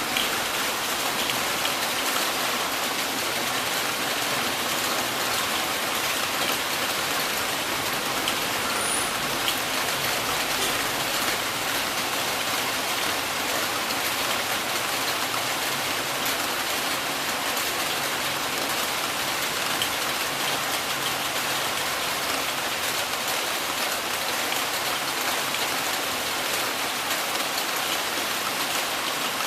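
Heavy rain falling and pattering steadily on surfaces, with a few faint drip ticks.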